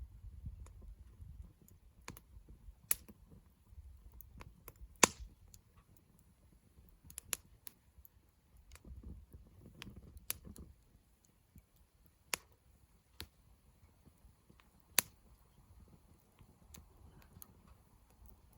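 Wood campfire crackling: irregular sharp pops and snaps, the loudest about five seconds in and again near fifteen seconds, over a faint low rumble.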